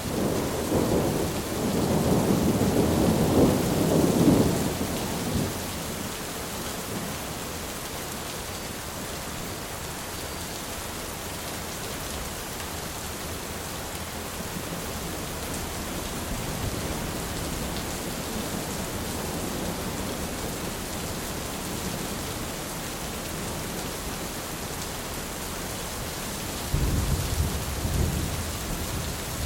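Steady rain, with a rolling clap of thunder rumbling for about five seconds at the start and another sudden rumble of thunder near the end.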